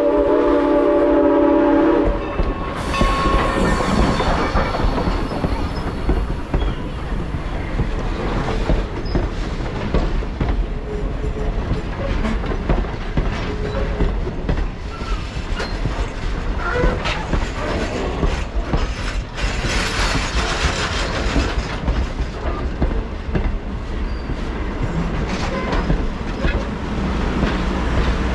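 Steam locomotive whistle from Norfolk and Western 475, a chord of several steady tones that cuts off about two seconds in. A train then rolls past with a continuous rumble, its wheels clicking over rail joints and squealing now and then.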